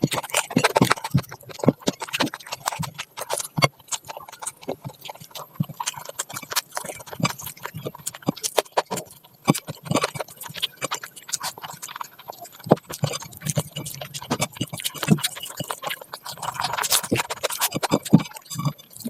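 Close-miked eating: chewing with wet smacks and many sharp, irregular clicks.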